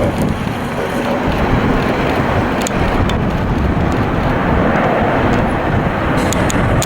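Jet airliner engine noise, a steady loud rushing roar.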